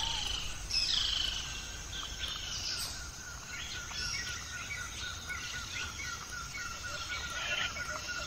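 Wild birds singing outdoors: high warbling phrases, then from about two seconds in a rapid run of repeated chirps, about five a second, over a low rumble.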